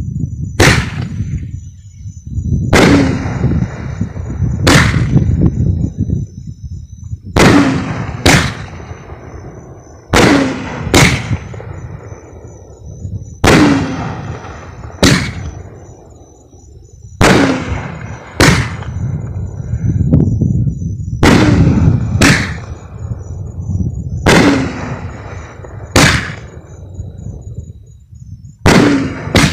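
Phantom Fireworks 'Heavy Fuel' multi-shot cake firing: a run of loud booming reports, one every one to three seconds, several coming in quick pairs, each followed by a rolling rumble.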